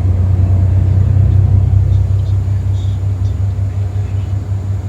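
Tour bus travelling along the road: a steady low engine and road rumble.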